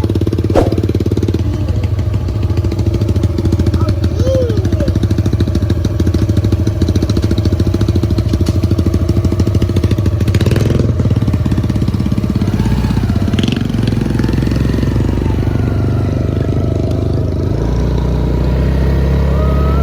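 Small single-cylinder four-stroke engine of a kids' pit bike or mini quad running steadily at low revs. Its note shifts about eleven seconds in, then drops lower and gets stronger near the end.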